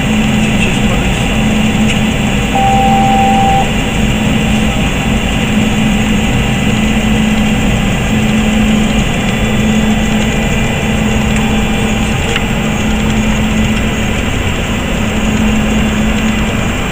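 Steady, loud noise on a Boeing 737 flight deck: an even rush of air and machinery with a low hum that pulses on and off. A short single tone sounds for about a second, about two and a half seconds in.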